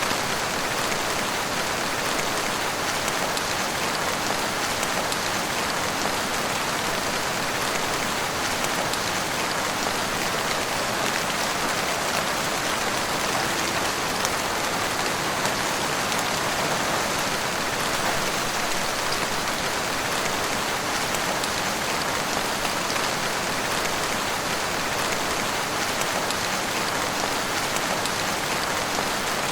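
Heavy rain falling steadily, a dense even wash of countless drops with no letup.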